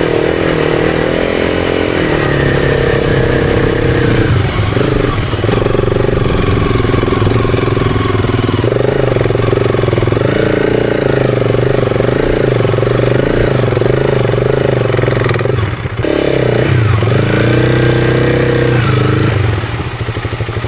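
Honda CRF300's single-cylinder engine running under load through sand, its revs rising and falling. The revs dip briefly a few times, like throttle lifts or gear changes, and the engine eases off near the end.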